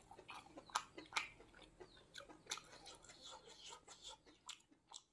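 A person eating: faint wet chewing and lip-smacking, a run of many small irregular clicks and smacks that stops at the end.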